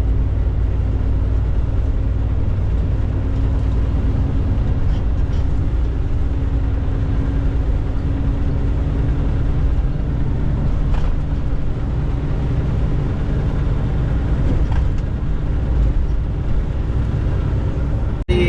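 Tractor-trailer driving on the highway: a steady low rumble of engine and road noise with a faint constant hum. The sound drops out briefly near the end.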